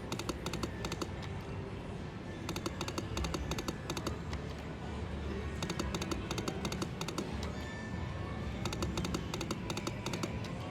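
Best Bet Lightning Link slot machine running spin after spin: bursts of rapid electronic clicking, each about a second and a half long and roughly three seconds apart, over the machine's music and a steady casino hum.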